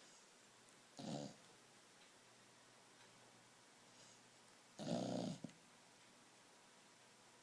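A pet dog snoring in its sleep: two snores about four seconds apart, one about a second in and a longer one about five seconds in.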